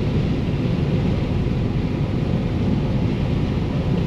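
John Deere combine running steadily while harvesting corn: an even, loud, low-pitched machine noise with no distinct knocks or changes.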